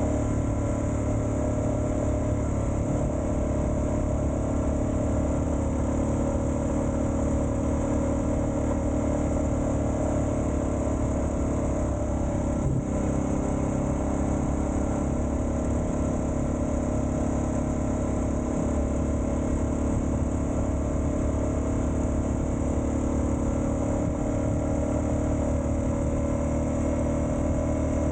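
Suzuki DR650's single-cylinder four-stroke engine running at a steady, even speed while riding, with one brief knock about halfway through.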